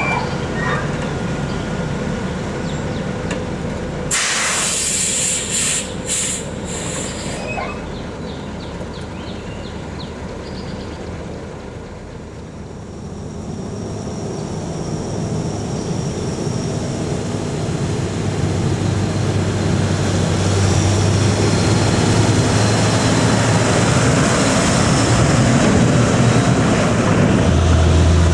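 Loaded dump truck coming down a long, steep grade: several short air-brake hisses about four to seven seconds in, over a thin high brake squeal. Its diesel engine then grows steadily louder toward the end.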